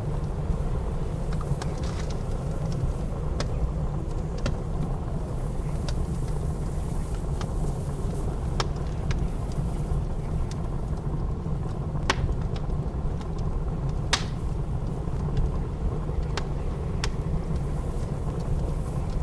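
Wood fire crackling with scattered sharp pops, the strongest about twelve and fourteen seconds in, over a steady low rumble of blizzard wind.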